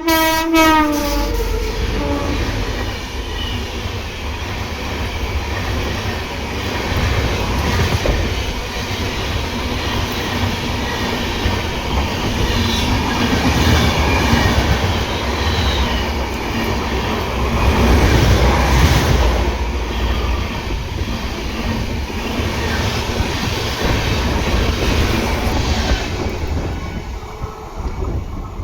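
Indian Railways train running on the track: a steady rumble with wheels clattering over the rails. A horn blast that began just before ends about a second in, its pitch dropping as it fades.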